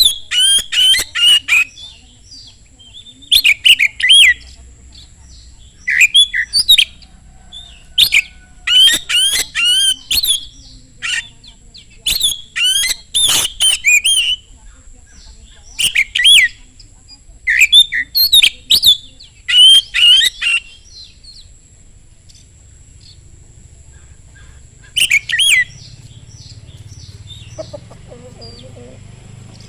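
Oriental magpie-robin (kacer) singing loudly in repeated bursts of rapid, varied whistles and chattering notes, with short pauses between phrases and a longer lull late on.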